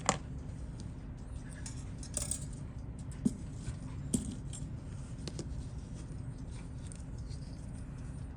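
Scattered sharp clicks and light metallic taps of watchmaker's tools and small watch parts on a bench during the teardown of a Seiko 6139 chronograph. The loudest click comes right at the start, with others about three and four seconds in, over a steady low hum.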